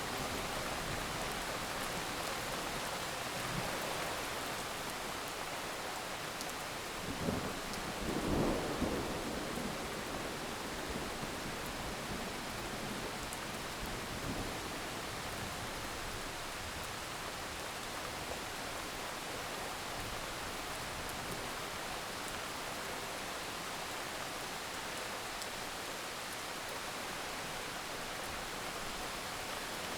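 Heavy rain falling steadily, with a short burst of thunder about seven to nine seconds in.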